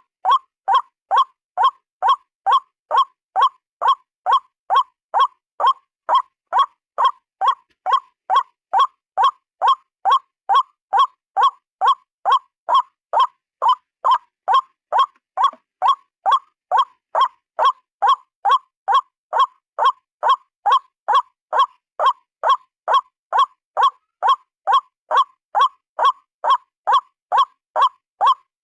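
White-breasted waterhen, a single bird, calling: one short nasal note repeated steadily about twice a second without a pause.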